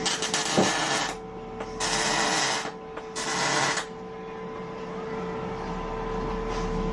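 Three bursts of noise from a workshop tool, each about a second long, over a steady machine hum.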